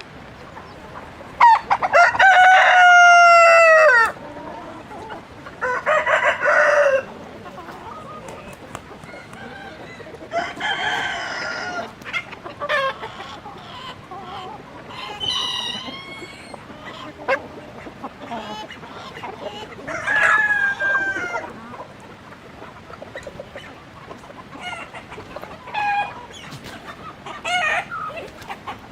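Chickens calling: a rooster crows loudly about a second and a half in, and shorter calls and clucks follow every few seconds.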